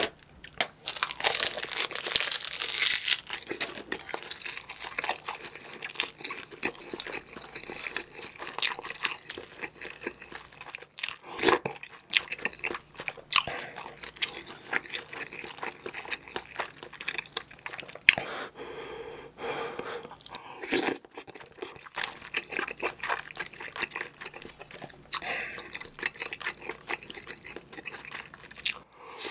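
Close-miked eating: wet chewing and crunching of stewed kimchi and rice, with irregular clicks and smacks, loudest for a couple of seconds near the start.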